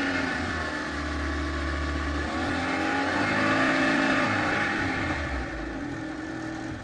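Car engine running as the car is driven, its pitch rising and falling with the throttle, getting quieter over the last couple of seconds.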